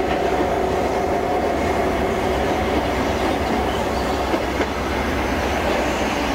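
High Speed Train (InterCity 125) with its Class 43 diesel power cars running on the line, giving a steady, continuous rumble of wheels and engine. A humming tone fades out over the first couple of seconds.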